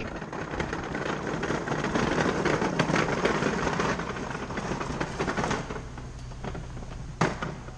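Shopping cart being pushed, its wheels and wire basket rattling and clattering; the rattle eases off about five and a half seconds in, and there is one sharp clack near the end.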